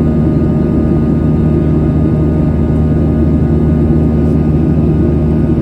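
Boeing 737-800's CFM56-7B turbofan engine at climb power, heard inside the cabin beside the engine: a steady loud rushing drone with several steady low hum tones under it.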